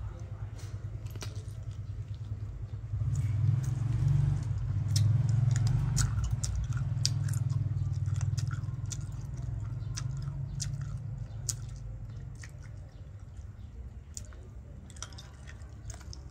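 Close-miked eating: a person chewing and biting pickled chicken feet, with many irregular sharp crunchy clicks, over a steady low rumble.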